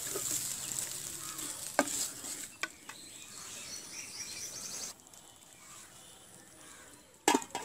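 Wooden spatula stirring amaranth stems and potato sizzling in oil in a metal karahi, with a few sharp knocks of the spatula against the pan. The sizzling drops away suddenly about five seconds in, and a pair of loud knocks follows near the end.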